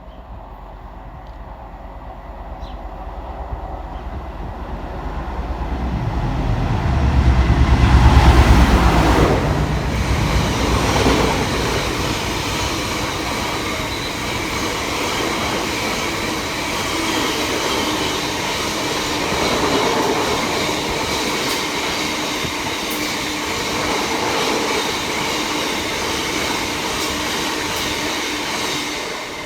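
A train approaches and passes close by. A rumble builds to its loudest about eight seconds in as the front of the train goes past, then a steady rush of wheels on rail with clattering carries on as the rest of the train runs by.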